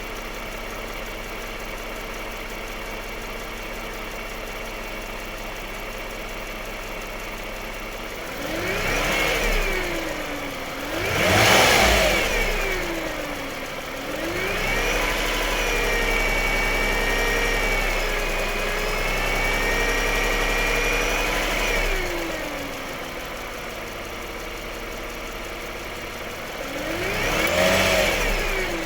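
Lexus RX350 engine idling steadily, then revved in short blips, the second the loudest. It is held at a higher speed for several seconds, drops back to idle, and is blipped once more near the end.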